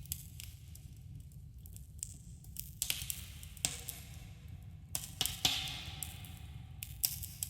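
Wood campfire crackling: irregular sharp pops and snaps over a steady low rumble, with a denser spell of hissing crackle a little past the middle, and a slight echo as in a cave.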